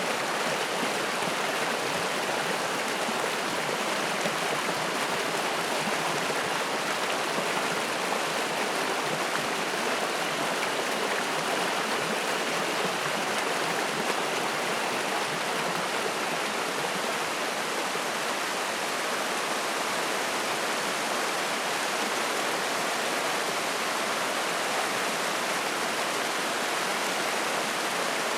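Mountain stream rushing steadily over rocks, a continuous splashing flow of water.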